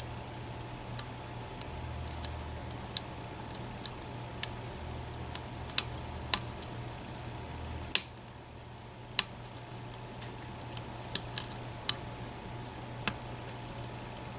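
Faint, irregular metallic clicks and ticks of a hook pick working the sliders and pin tumblers inside an EVVA ICS lock under tension, with a sharper click about eight seconds in, over a steady low hum.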